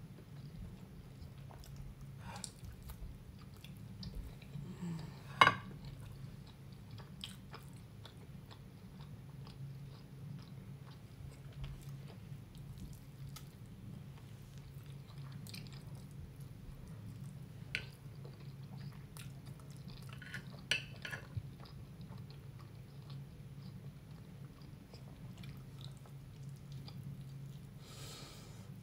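A person chewing mouthfuls of soft turkey lasagna, with a few sharp clicks of a metal fork against the glass baking dish, the loudest about five seconds in. A steady low hum runs underneath.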